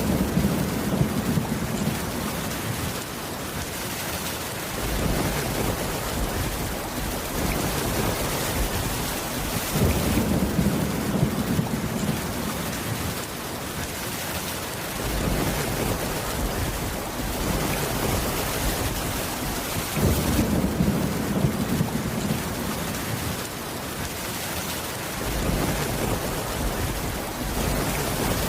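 Steady rainfall with low rolling rumbles of thunder that swell and fade about every ten seconds: at the start, about ten seconds in, about twenty seconds in, and more weakly near the end.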